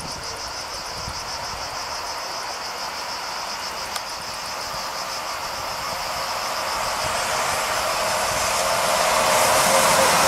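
Cicadas buzzing in a steady pulsing chorus while a freight train approaches behind an SNCF BB 26000 electric locomotive. The train's wheel-and-rail rumble grows louder from about halfway in and is loudest near the end as the tank wagons roll past.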